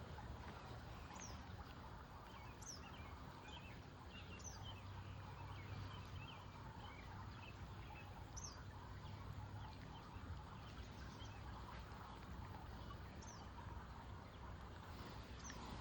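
Faint outdoor ambience: small birds chirping now and then, with a few brief high falling notes, over a steady low hum.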